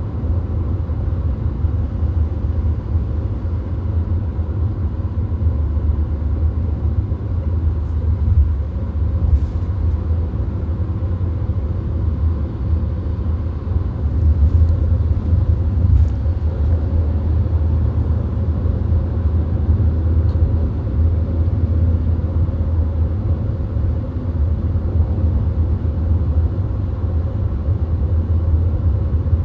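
Steady low road rumble inside a VW Golf cruising on a motorway: tyre, wind and engine noise blended into an even drone.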